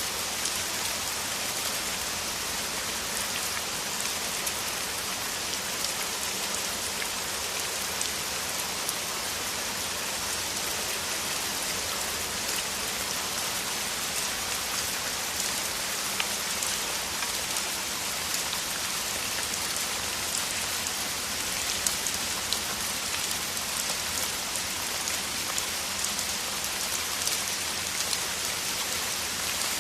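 Heavy rain falling steadily: a dense, even hiss with many individual drops ticking through it and now and then a louder drop.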